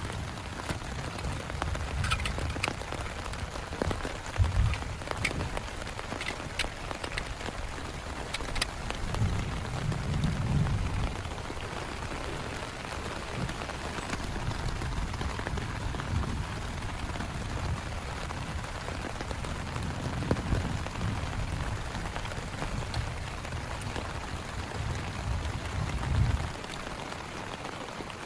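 Heavy rain falling steadily, with sharp drop impacts close by during the first several seconds. A low rumbling swells and fades several times and cuts off near the end.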